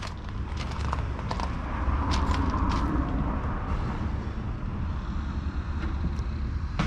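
John Deere 6120M tractor's 4.5-litre four-cylinder diesel engine running with a steady low rumble that swells louder for a moment about two to three seconds in, with scattered clicks over it.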